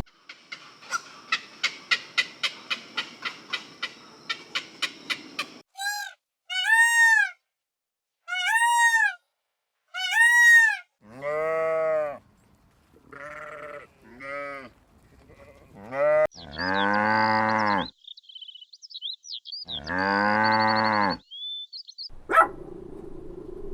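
A run of farm animal calls: first a fast series of even clicks, then four short high calls that rise and fall, then longer, deeper, wavering bleats from livestock, with faint bird chirps near the end.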